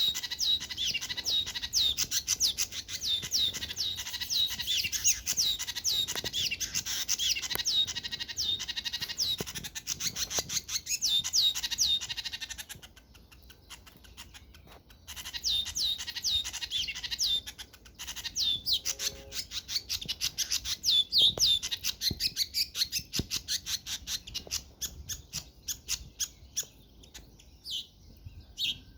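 A group of small birds chirping in a dense, rapid run of high, overlapping chirps. There are two short breaks, about 13 and 18 seconds in, and the chirps thin out to a few single calls near the end.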